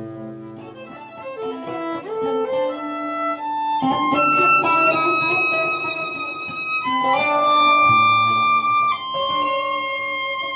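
Violin and acoustic guitar improvising: a quick climbing run of short notes, then from about four seconds in long sustained violin notes that change pitch every couple of seconds.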